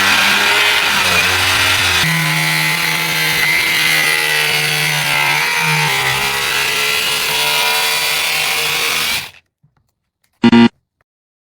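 Angle grinder running under load as it cuts into a smartphone, a loud harsh grinding with a steady motor whine that cuts off suddenly after about nine seconds. A brief short sound follows about a second later.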